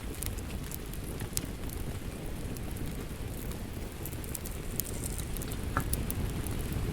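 Wood fire crackling, with scattered sharp pops, over a steady rush of rain. One stronger pop comes near the end.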